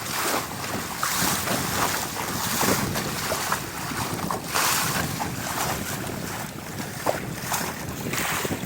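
Water rushing and splashing along the hull of a Laser sailing dinghy moving fast through waves, with gusty wind buffeting the phone's microphone.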